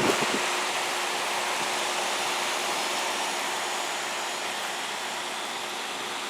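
1997 York Stellar Plus heat pump outdoor unit in a defrost cycle: a louder low rumble cuts off at the very start, leaving a steady hiss that slowly fades.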